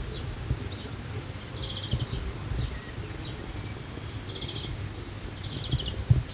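Small songbirds chirping, with a short rapid trill about three times, over a steady low rumble.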